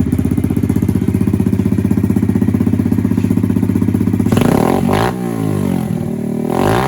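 Yamaha TTR-110's single-cylinder four-stroke engine, fitted with a Nibbi 22mm carburetor and new exhaust, idling steadily. About four seconds in it is revved twice, the pitch rising and falling each time.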